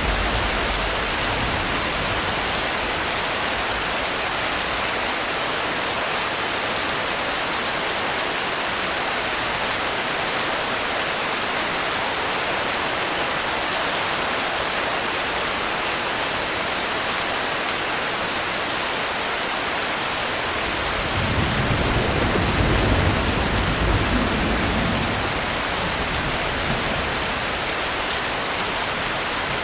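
Steady, heavy rain as an even hiss. A low rumble of distant thunder swells and fades about two-thirds of the way through.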